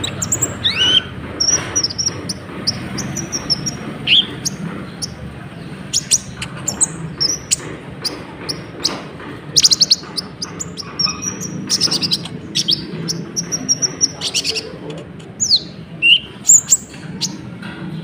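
Konin (kolibri ninja) sunbird singing without pause: a fast, varied string of high chirps, rapid buzzy trills and a few quick downward-sliding whistles, over a steady low hum.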